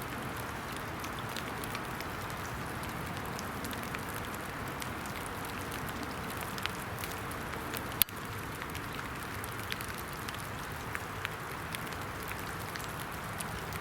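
Steady rain falling: an even hiss with scattered dripping ticks, and one sharp click about eight seconds in.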